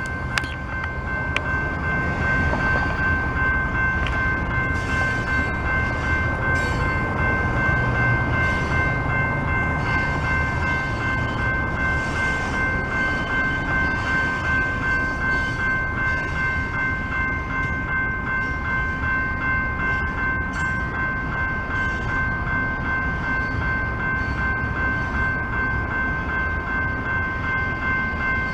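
Freight train cars rolling through a grade crossing with a low rumble, while the crossing's warning bell rings steadily. The bell stops right at the end.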